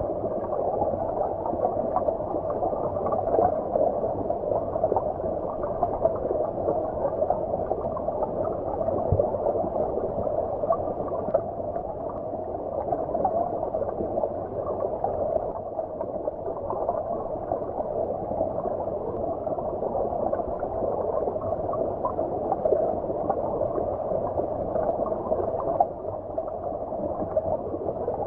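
Flowing stream water heard as if from underwater: a steady, muffled gurgling rush with the high end missing.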